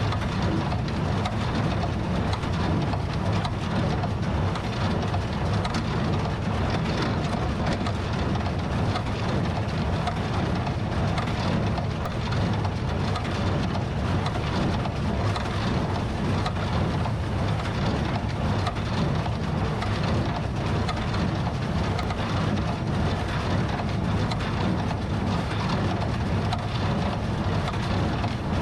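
TYM T654 tractor's diesel engine running steadily under load while pulling a New Holland Super Hayliner 78 wire-tie square baler through the hay, a constant low machinery noise.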